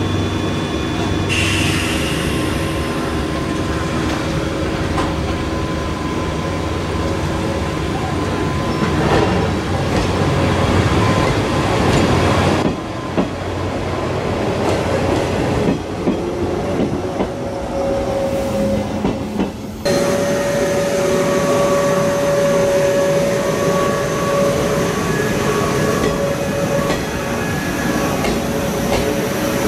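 JR West 105 series DC electric commuter train pulling out of the station and running past, its motors and wheels on the rails going steadily, with a rising whine near the end as it picks up speed.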